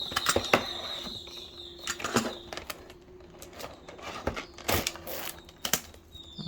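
Opening and handling the retail packaging of a car charger: irregular clicks, taps and rustles of the box and plastic, over a faint steady high tone.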